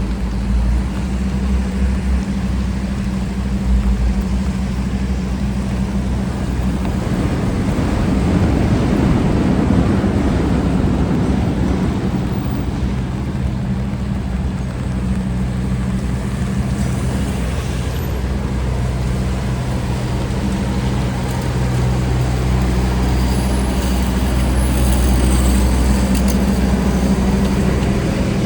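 Busy city street traffic: a steady low hum of idling and slow-moving engines, with a vehicle passing about nine seconds in.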